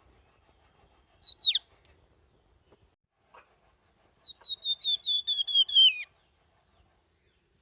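Flamboyan songbird whistling: a short note ending in a steep downward sweep, then, about three seconds later, a quick run of about a dozen clear flute-like notes whose last note falls away.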